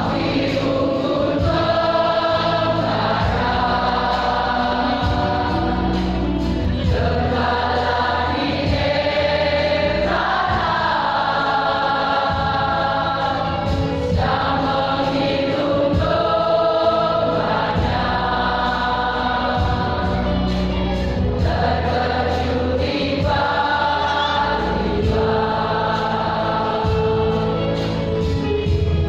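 Church choir singing in held phrases a second or two long, over a steady low accompaniment.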